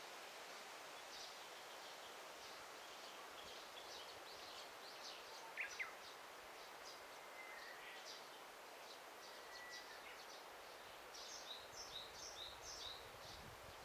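Faint daytime forest ambience: small birds chirping with many short high notes over a soft background noise. There is a brief louder call about five and a half seconds in, a thin steady whistled note a little later, and a busier burst of chirping near the end.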